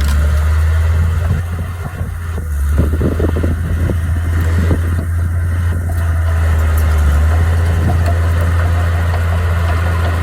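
Heavy diesel machinery engine running with a steady low drone. The level dips briefly about two seconds in.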